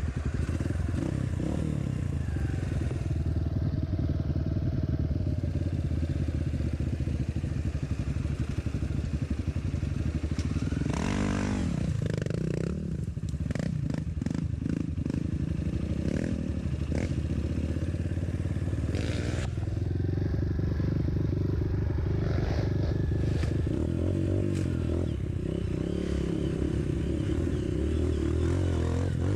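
Trail motorcycle engine running steadily, its pitch dipping and rising again about eleven seconds in, with scattered knocks and clatter through the middle.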